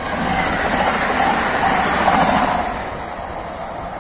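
Koleje Dolnośląskie electric multiple unit passing close by, its wheels rolling on the rails. It grows louder as it comes alongside about a second in and fades after two and a half seconds.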